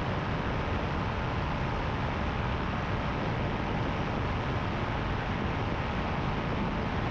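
Paramotor engine and propeller running steadily in cruise flight: an even drone mixed with a rushing noise, with no change in power.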